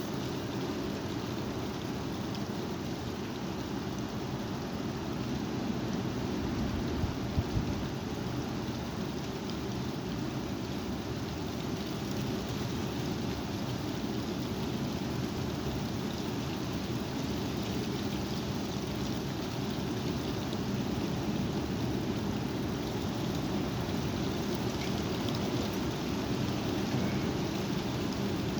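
Strong wind blowing steadily, heard mostly as a low rumble of gusts buffeting the microphone, with two brief thumps about seven seconds in.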